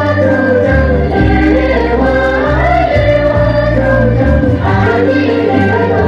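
Several voices singing a melody together over music with a deep, steady bass line.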